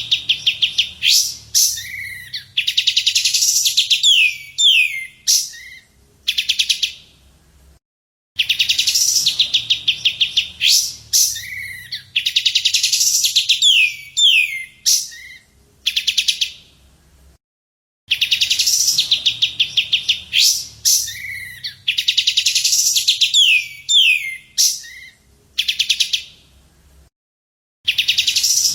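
Recorded bird call played in a loop for song training: a fast rattling trill of sharp notes followed by several quick down-slurred whistles. The same phrase repeats about every ten seconds.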